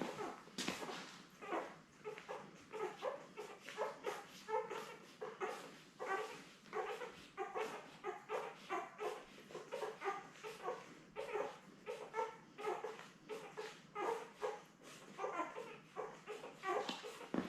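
A litter of ten-day-old Labrador retriever puppies squeaking and whimpering as they nurse on their mother, with short high calls coming several times a second without a break.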